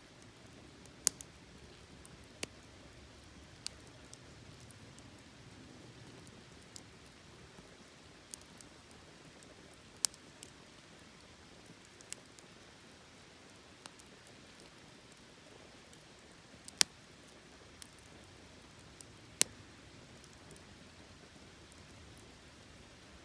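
Wood campfire crackling: sharp, irregular pops every second or two over the faint, steady hiss of the burning fire.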